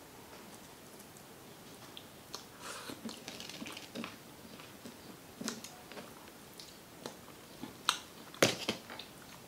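Two people chewing and biting pizza crust and chicken wings: scattered short crunches and clicks, the sharpest about eight and a half seconds in.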